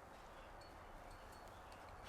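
Near silence: faint outdoor ambience with a few faint clicks.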